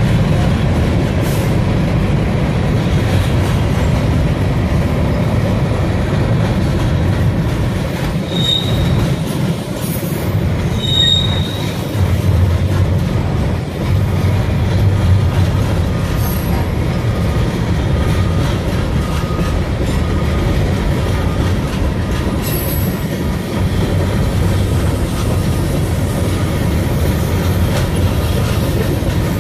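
A freight train's cars rolling past close by: a steady rumble of steel wheels on the rails, with a couple of short, high wheel squeals.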